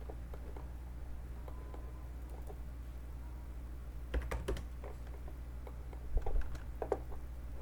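Computer keyboard typing: scattered light key clicks, with two short quick runs of keystrokes about four seconds in and again about six seconds in, over a steady low hum.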